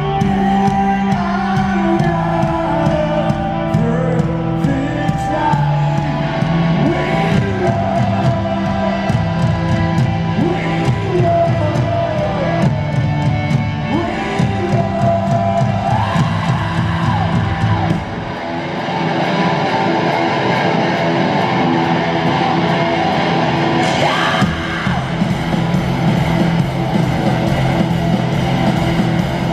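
Live rock band playing loud in an arena, with singing over guitars and drums. About two-thirds of the way through the bass drops out for a few seconds, then the full band comes back in.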